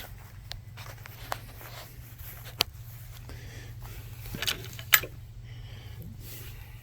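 Someone moving about and handling things: a few scattered clicks and knocks, the sharpest about five seconds in, over a low steady hum.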